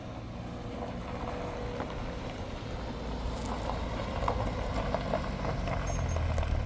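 A motor vehicle running: a steady low engine rumble with crackly noise above it, slowly getting a little louder.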